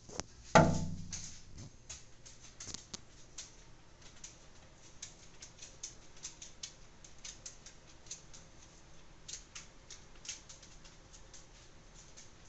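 A single sharp knock with a brief ringing tail, followed by a steady scatter of light, irregular ticks and clicks.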